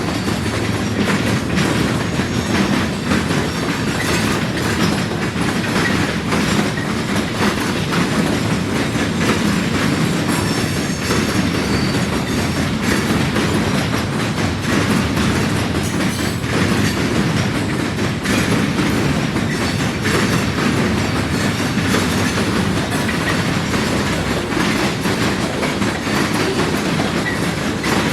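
Freight cars of a long train rolling over a railroad diamond crossing, the wheels clattering and banging steadily and unbroken over the crossing.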